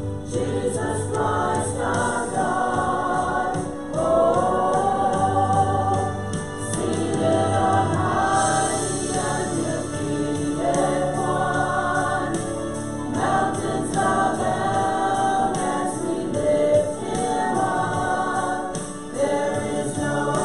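Voices singing a gospel hymn together in harmony, with long held notes.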